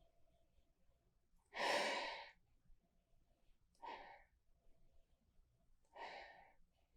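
A person breathing in through the nose over a glass of beer, three breaths about two seconds apart, the first the loudest and longest.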